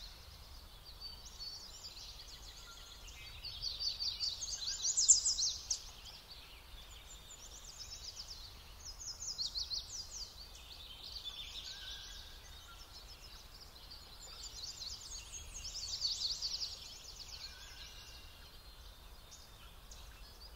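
Songbirds singing: phrases of rapid, high notes every few seconds.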